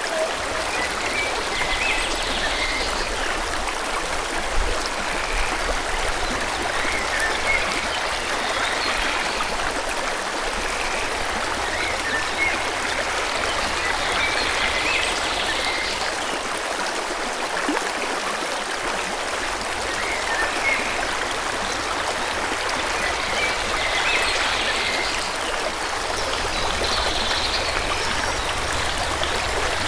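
Steady rush of a flowing stream, with birds chirping now and then above it.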